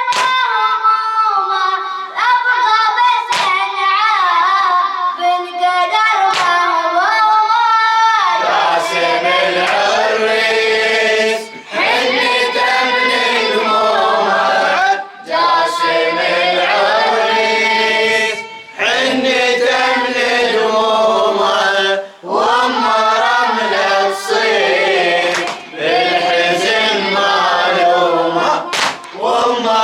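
A young reciter chants a Shia Muharram latmiya lament, and about eight seconds in a group of mourners joins in chorus. Rhythmic hand strikes of chest-beating (latm) go with the singing.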